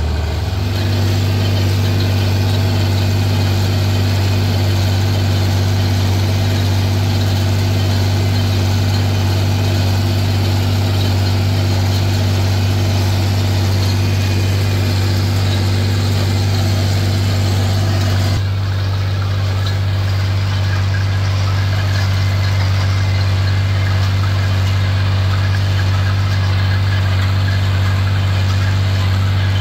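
Farm tractor engine running steadily under load, a deep, even drone. The higher part of the noise drops off a little about eighteen seconds in.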